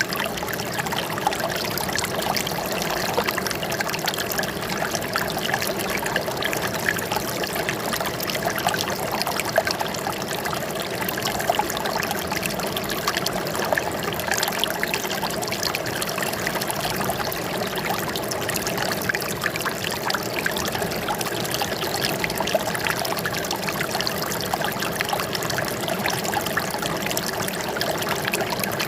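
Running water trickling and splashing steadily, with no let-up or change.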